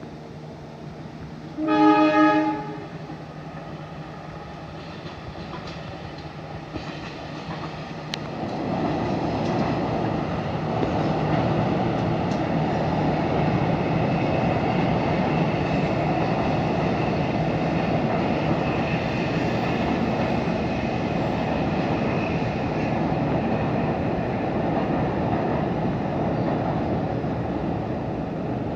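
A diesel-electric locomotive sounds its horn in one short loud blast about two seconds in, over the low hum of its engine. From about eight seconds on, the passing train's wheels run on the rails in a steady rumble and clatter.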